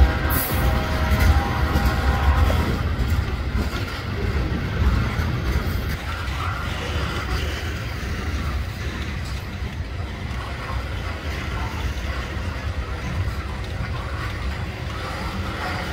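Loaded ethanol tank cars of a freight train rolling past, a steady low rumble of steel wheels on the rails, with a thin high whine that fades out a couple of seconds in.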